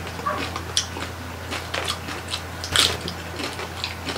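Close-up chewing of roast pork (lechon), with irregular wet mouth clicks and smacks and the loudest smack near three seconds in, over a steady low hum.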